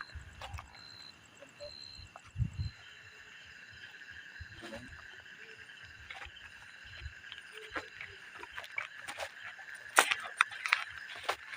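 A steady chorus of insects buzzing and chirping, with a short high chirp repeating about twice a second that stops a few seconds in. Scattered clicks and knocks, loudest in a cluster near the end, together with a few low thumps early on.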